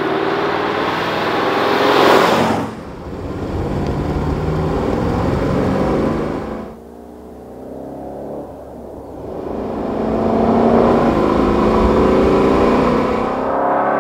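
Alfa Romeo Montreal's 2.6-litre V8 engine revving as the car sweeps past, loudest about two seconds in. The sound breaks off abruptly twice; the engine is then heard accelerating with rising pitch, and runs loud and steady as the car approaches again.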